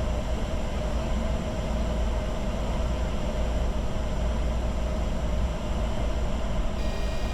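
Steady flight-deck noise of a Bombardier Challenger 605 business jet in descent: a constant low rumble of airflow and engines with a faint steady hum above it.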